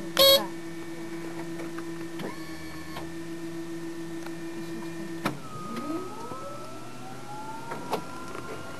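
Inside the cabin of a DHC-6 Twin Otter: a steady hum cuts off about halfway through. Then a rising whine builds as one of the Pratt & Whitney PT6A turboprop engines spools up during start. A sharp click sounds just after the start.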